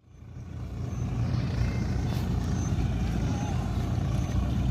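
Diesel engines of a backhoe loader and tractor running steadily under load, a low, even engine sound that fades in over the first second.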